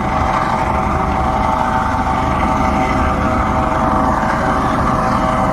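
Coast Guard helicopter hovering close by: a steady engine whine and rotor noise, with its downdraft buffeting the microphone.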